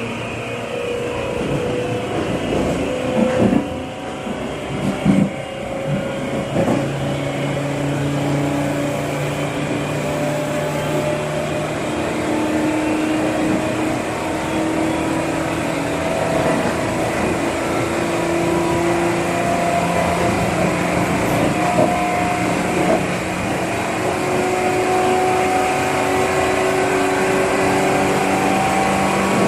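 Seibu New 2000 series electric train motor car running, its traction motor and gear whine stepping up in pitch as the train gathers speed, with a few sharp clacks of wheels over rail joints a few seconds in. The motor is the one fitted with an abnormal 'jet sound' whine, which is quiet and hard to pick out.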